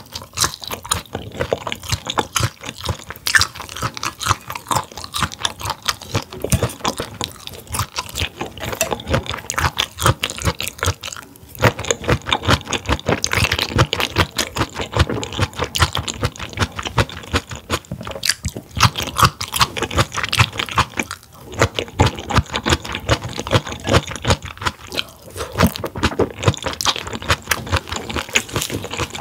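A person chewing grilled food close to the microphone with mouth closed: a dense, continuous run of crunchy, wet chewing clicks, broken by two brief pauses.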